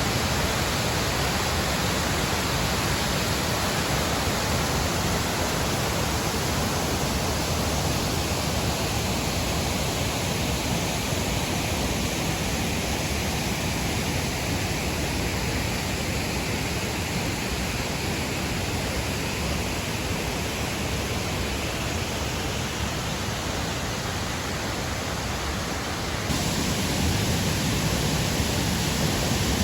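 Waterfall: a steady rush of falling water. A few seconds before the end the sound shifts and becomes fuller and deeper.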